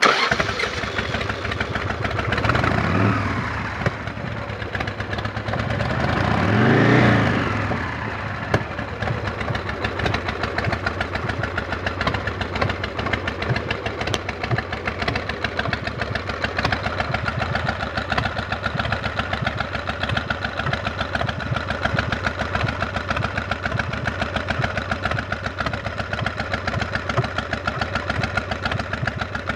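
Custom Harley chopper's V-twin engine starting up suddenly, revved twice (one rise and fall of pitch about three seconds in, another about seven seconds in), then settling into a steady, pulsing idle.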